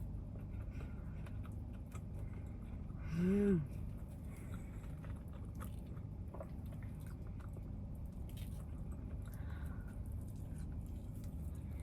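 Close-up chewing and eating sounds, with small wet clicks, and a short hummed "mmm" of enjoyment about three seconds in, over a steady low rumble.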